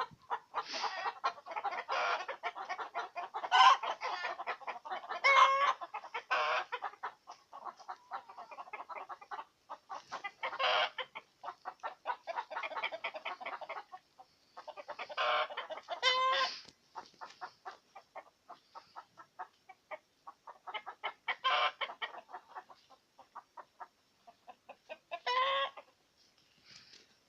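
Chickens clucking in rapid short notes, with louder drawn-out calls breaking in every few seconds.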